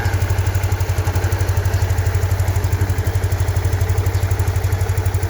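Yamaha Aerox scooter's single-cylinder four-stroke engine idling steadily. It is running again after its cut fuel-pump supply wire was spliced.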